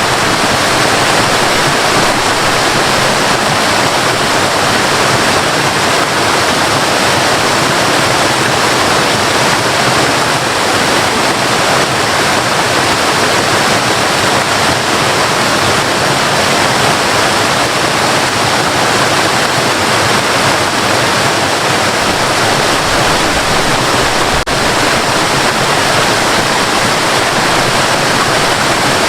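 Waterfall: a steady, loud rush of falling and splashing water with no let-up, broken only by a momentary dip in level about two-thirds of the way through.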